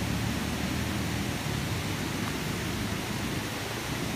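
Steady rush of a river's whitewater over rocks: an even hiss with no breaks.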